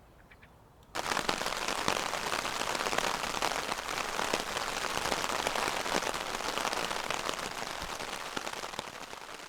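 Bacon sizzling and crackling in a frying pan, a dense hiss of spitting fat that starts suddenly about a second in and slowly fades near the end.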